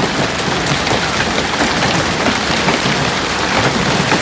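Heavy hailstorm: large hailstones, nearing softball size, pelting down with rain in a dense, continuous clatter of impacts.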